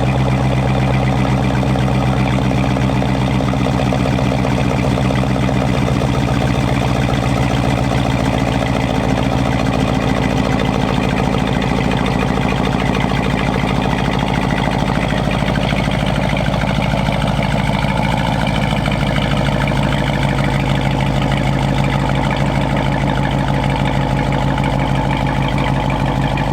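Dodge Durango R/T's 5.7-litre Hemi V8 idling steadily after a cold start, heard through an exhaust with the rear resonator deleted and the stock mid-muffler and tips kept.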